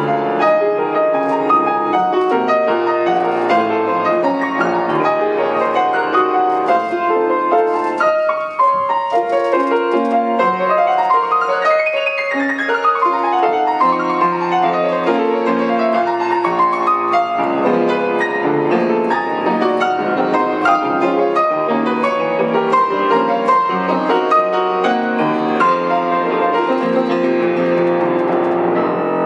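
Solo piano playing a fast classical passage of dense runs, with a quick run sweeping up and back down about halfway through.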